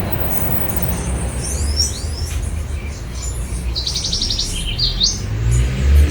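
Wild birds chirping and calling: short high whistled chirps and glides, with a quick trill of rapid repeated notes about four seconds in, over a steady low rumble.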